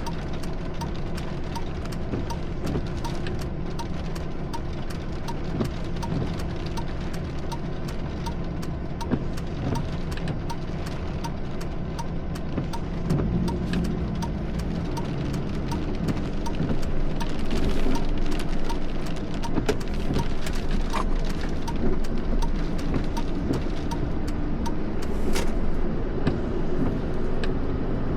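A car running with steady engine and road rumble, with frequent sharp ticks throughout; it grows louder about two-thirds of the way in.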